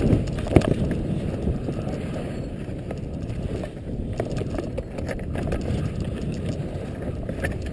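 Wind buffeting the microphone during a ski run, a steady low rumble with scattered clicks and a sharp knock about half a second in.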